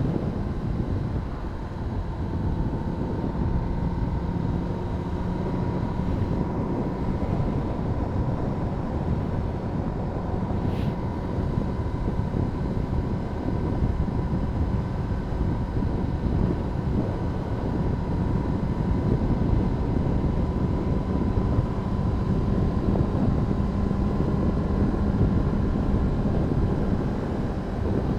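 Honda CBR600RR's inline-four engine running at a steady cruising speed, its pitch holding nearly constant, under a steady rush of wind and road noise.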